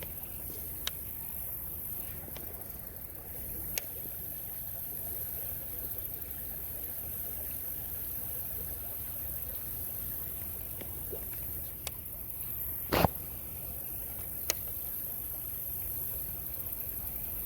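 Creek water moving and lapping, with a steady high drone of insects. A few sharp clicks sound through it, the loudest about two-thirds of the way through.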